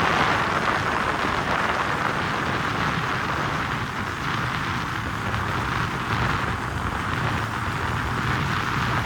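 Steady rush of wind noise over a low motorbike engine rumble, as heard on a moving motorbike.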